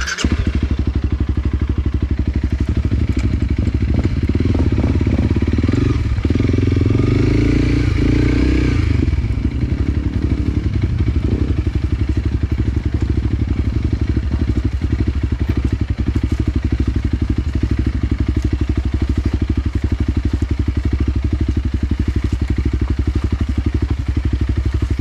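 Enduro dirt bike engine running close by, cutting in abruptly at the start. It is revved up for several seconds around the first third, then settles to a steady idle.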